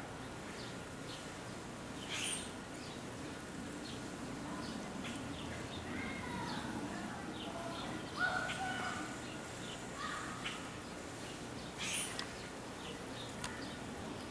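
Wild birds chirping and calling: scattered short chirps and whistles, with a louder call about two seconds in and another near the end, over steady outdoor background noise.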